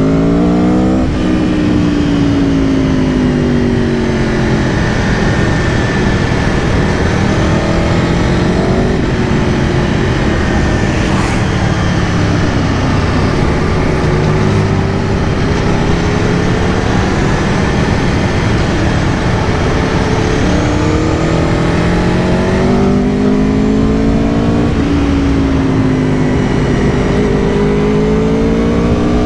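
2022 Aprilia Tuono V4 Factory's V4 engine under way, its pitch climbing under throttle and dropping back several times as the bike accelerates and eases off, with a steady rush of wind and road noise.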